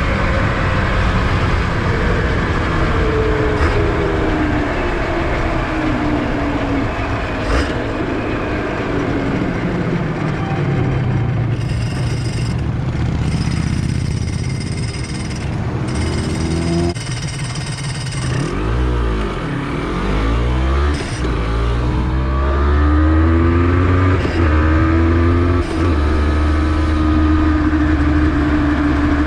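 Honda NSR250R's two-stroke V-twin engine running on the move, its pitch repeatedly rising and falling as it accelerates and eases off.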